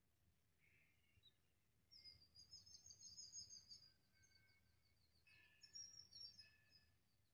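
Faint birds chirping, two bouts of rapid high twittering over a quiet outdoor background.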